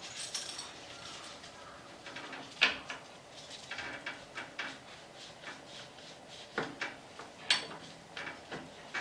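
Tools and small metal parts being handled during a motorcycle brake caliper overhaul: scattered clicks and light knocks, with a sharp knock about two and a half seconds in and two more near the end.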